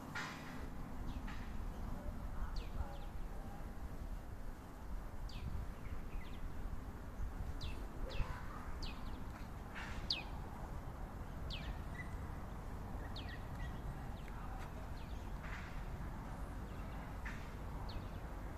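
Birds chirping: short, sharp downward-sweeping calls every second or so, over a low steady rumble.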